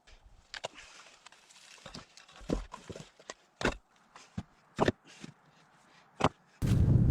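Irregular knocks and sharp clicks at uneven intervals, with a heavier dull thud near the end.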